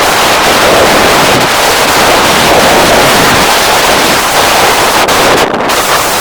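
Loud, steady wind buffeting the microphone of a camera carried on a moving bicycle, with a brief lull about five and a half seconds in.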